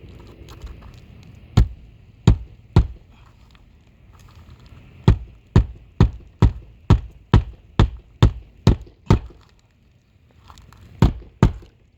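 Hammer strikes on the roof shingles: three blows, then a steady run of about ten at a little over two a second, then two more near the end.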